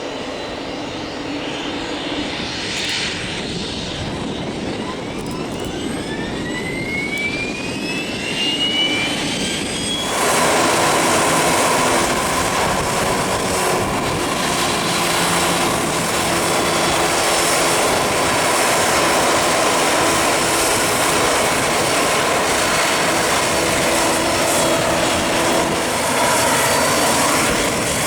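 Business jet's engines: a whine rising in pitch, then, about ten seconds in, a sudden jump to a much louder steady rush that holds to the end.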